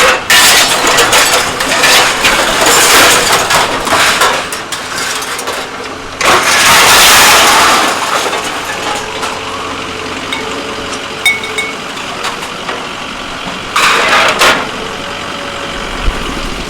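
An engine running, with loud, noisy machinery bursts over it: a long one at the start, another about six seconds in, and a short one near the end.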